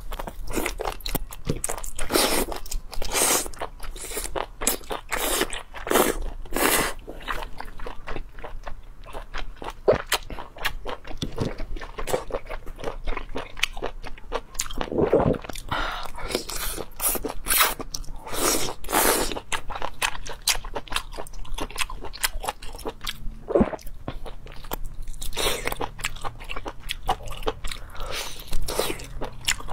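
A person biting and chewing whole small octopus close to a clip-on microphone: many short biting and chewing sounds in quick, irregular succession.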